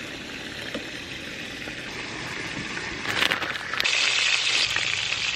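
Burger patties sizzling on a grill, a steady hiss that grows louder about three seconds in.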